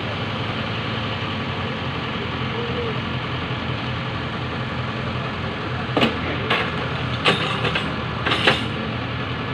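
Truck engine idling steadily, with a few short, sharp noises in quick succession about six seconds in.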